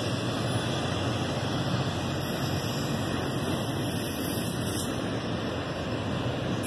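Intermodal freight train of double-stack container well cars rolling past, a steady noise of steel wheels running on the rails.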